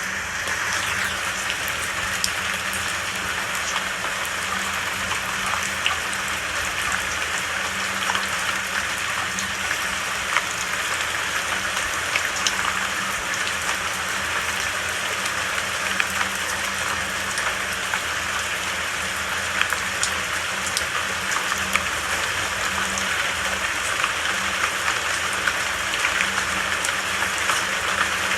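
Steady rain falling: a dense, even hiss with scattered single drops ticking through it.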